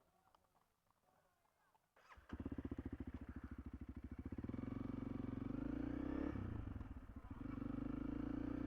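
A Honda CRF300L's single-cylinder engine, shut off until now, starts about two seconds in and runs with a steady pulsing beat. Its revs rise as the bike moves off, with a brief dip about seven seconds in.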